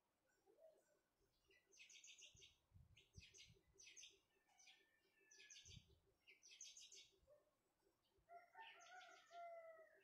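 Small songbird chirping in quick repeated bursts of high notes, ending with a lower warbling call with sliding pitch for the last couple of seconds.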